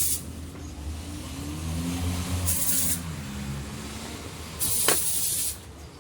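Three bursts of spraying hiss, each about half a second to a second long, over a steady low hum from a running car.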